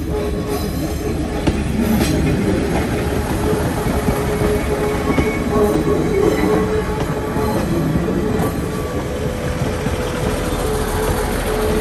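Taiwan Railway heritage diesel railcars DR2102 and DR2404 running along the track, a steady rumble of wheels and engine with a steady whine through it that edges slightly higher near the end.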